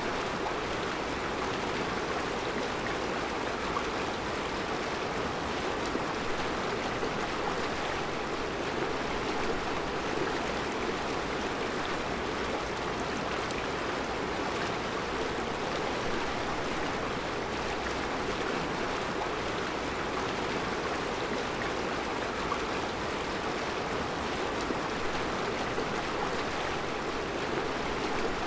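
Mountain river flowing steadily over round rocks in a rocky bed: an even, unbroken rush of water.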